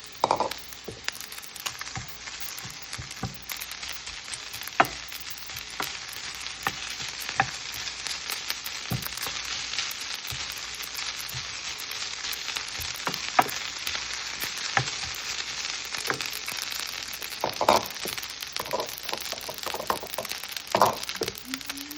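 Leftover rice frying in a hot pan with garlic and onion, a steady sizzle, while a utensil stirring it clacks and scrapes against the pan, more often near the end.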